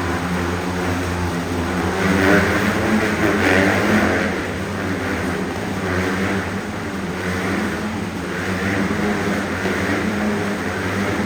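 Motorcycle engines running continuously, with the revs swelling louder about two to four seconds in.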